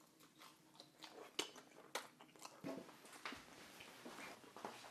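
Faint chewing of a mouthful of sushi bake wrapped in nori, with scattered small crunches and mouth clicks.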